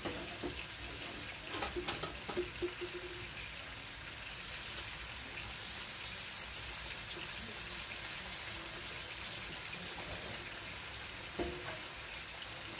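Beef liver slices sizzling in oil in a skillet, with the bubbling of a pan of onion gravy at a boil beside it. A few sharp clicks come about two seconds in.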